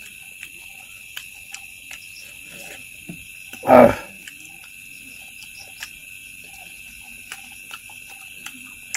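Close-up wet chewing and mouth-smacking clicks while eating food by hand, over a steady high insect-like chorus. One short, much louder rough sound stands out about four seconds in.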